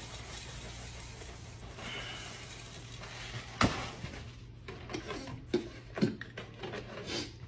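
Rice Krispies poured from the box into a bowl, a steady dry rustle lasting about three seconds. Then comes a sharp knock as the cereal box is set down on the counter, followed by a few lighter knocks and clatters as the milk jug is handled.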